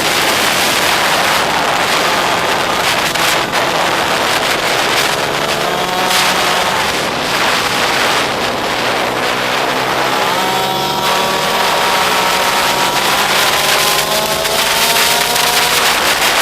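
Pit bike engine revving hard as it is ridden, its pitch rising and dropping several times as the rider accelerates and shifts, with wind noise buffeting the microphone.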